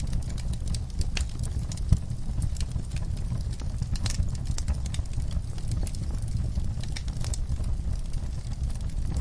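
Wood fire burning, with the low rumble of the flames and scattered crackles and pops of burning logs, one louder pop about two seconds in.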